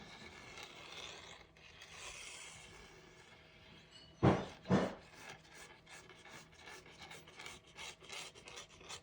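Hands rubbing and scraping over paper and chipboard while gluing album pages, with two sharp knocks about four seconds in and quick repeated rubbing strokes in the last few seconds.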